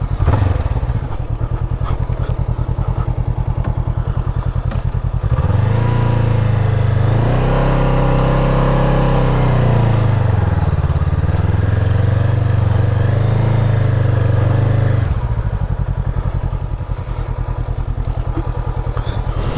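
Heavy motorcycle engine running at a lumpy idle. About five seconds in it is revved harder for about ten seconds, its pitch rising and falling, as the bike is worked through soft sand, then it drops back to idle.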